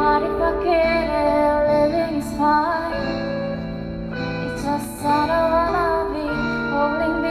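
A female vocalist sings a slow, gentle song live, backed by a band with held chords and guitar.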